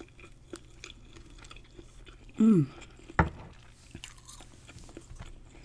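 A person chewing fried shrimp close to the microphone, with small wet mouth clicks throughout. A short falling hum comes about two and a half seconds in, and a sharp click comes soon after.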